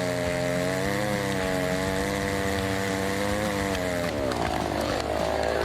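Small engine-driven machine running steadily, its pitch sagging and then picking up again about four seconds in.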